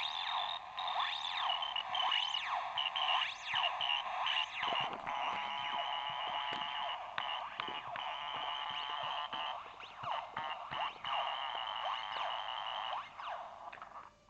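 Synthetic electronic chirps and bleeps: many quick rising and falling pitch sweeps over a high tone that pulses on and off, all thin and high with no bass.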